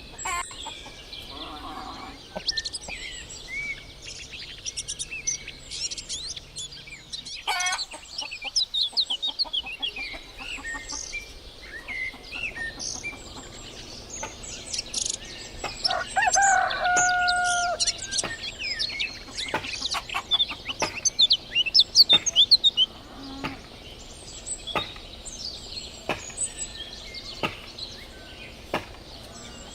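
Small songbirds chirping and twittering throughout, with a denser flurry of sharp chirps a little past halfway. A rooster crows once, a held call about halfway through, the loudest sound in the stretch.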